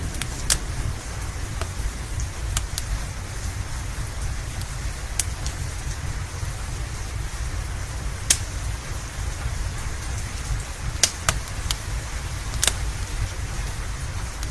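Steady rain with a low, constant rumble underneath, and the sharp, irregular pops and snaps of a crackling log fire, about ten of them scattered through the stretch.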